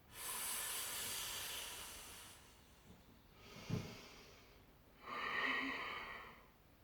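A woman's forceful hissing exhales through pursed lips while exercising: one long breath out, then a second about five seconds in, with a fainter breath and a soft thump between them.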